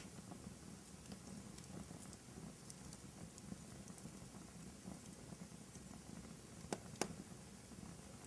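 Wood fire burning in a fireplace: a low steady rumble of flames with small scattered crackles, and two sharp pops about a second and a half before the end.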